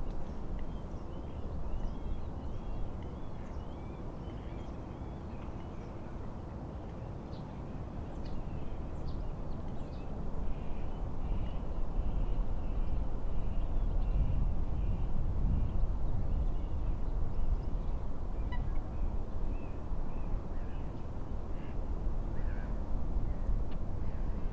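Birds calling over a low, rushing rumble of wind and water, the rumble growing louder about ten seconds in.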